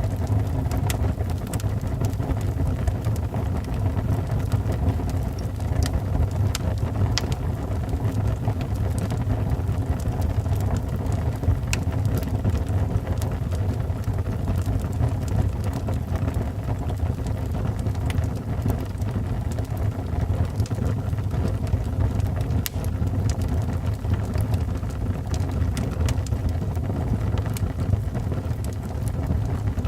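Wood fire burning in a fireplace: a steady low rumble of the flames with scattered, irregular crackles and pops from the burning wood.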